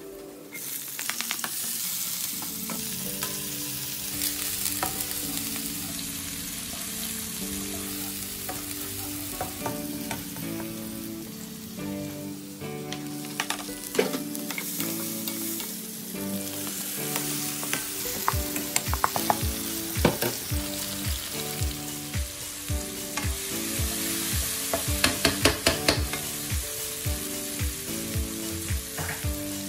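Garlic, onion and tomato sizzling in hot oil in a nonstick wok, stirred and scraped as they fry. In the second half the stirring strokes come in a quick, regular rhythm.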